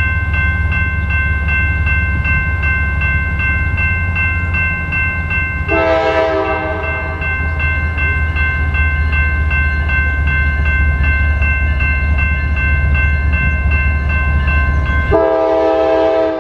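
CSX freight train approaching with a steady low rumble under the fast, steady ringing of grade-crossing bells. The locomotive horn sounds a chord for about a second and a half about six seconds in, then starts again near the end, as the rumble drops away.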